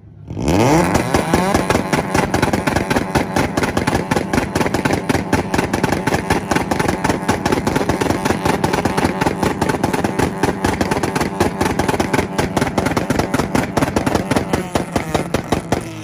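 Tuned car engine revving up hard and then held on a two-step launch-control rev limiter, stuttering and crackling with rapid pops and bangs for about fifteen seconds before letting off at the end.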